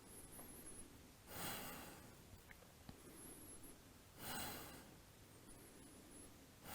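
A person breathing deeply and audibly while holding a yoga balance pose: two long breaths about three seconds apart, with a third beginning at the end, over near silence.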